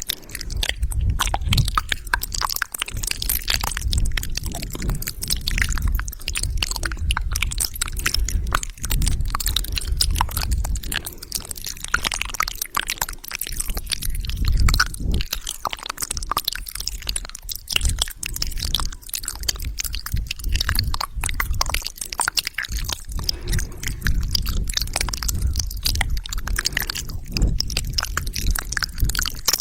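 Close-miked wet mouth sounds: a dense, continuous stream of quick clicks, smacks and squelches of the lips, tongue and saliva, with no words.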